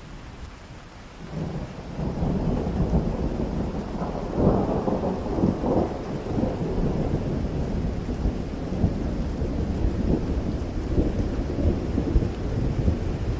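Rain with a long roll of thunder that swells a little over a second in, peaks about four and a half seconds in, and keeps rumbling.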